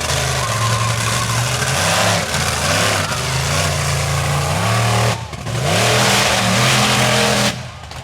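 Monster truck engine revving hard, its pitch climbing and falling over and over. It dips briefly about five seconds in, comes back up, then drops off sharply near the end.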